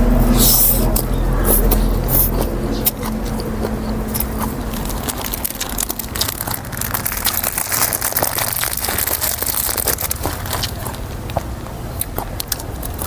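A person eating close to the microphone: chewing and crunching food, with many short wet clicks and smacks, over a steady low hum.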